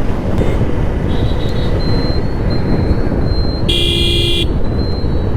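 Motorcycle riding at road speed: steady engine, road and wind noise. A vehicle horn sounds once, for under a second, a little after the middle.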